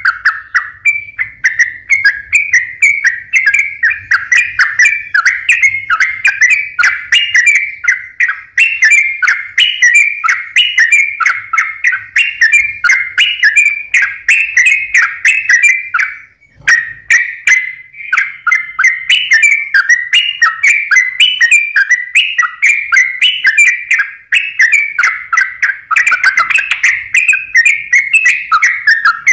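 Yellow-vented bulbul (trucukan) singing continuously in full, energetic song: rapid strings of short whistled notes with a brief pause about halfway through.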